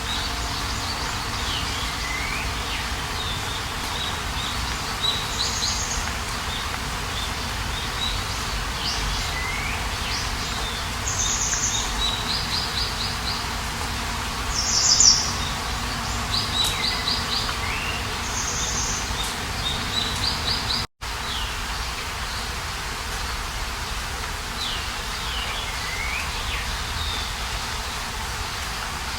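Wild birds singing outdoors: short high chirps, quick trills and downward-sliding whistles repeated every few seconds over a steady background hiss of outdoor ambience. The sound drops out for a split second about two-thirds of the way through.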